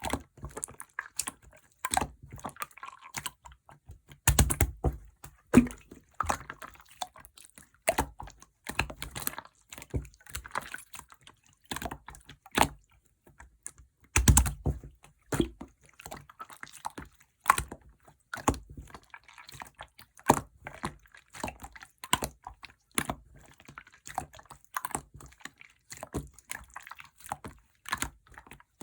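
Hands squishing and poking clear slime, making many irregular sharp clicks and pops, with two heavier squelches about four seconds and fourteen seconds in.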